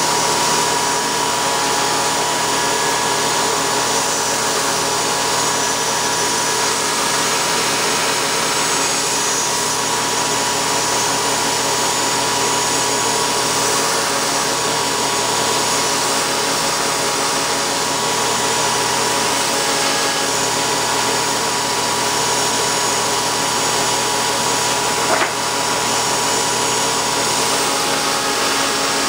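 Shop-built belt grinder running steadily at full speed, about 6800 surface feet per minute: a loud, even whir of the motor and fast-moving abrasive belt with a steady whine. One brief click late on.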